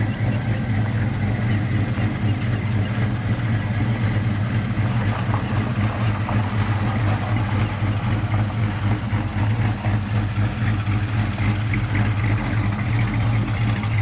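A vehicle engine idling steadily with an unchanging low drone.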